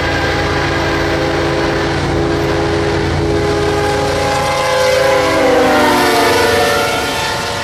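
CSX diesel freight train approaching and passing close by, sounding its multi-chime air horn over the rumble of the locomotives. The horn's chord drops in pitch as the lead locomotive goes by, about five seconds in, when it is loudest.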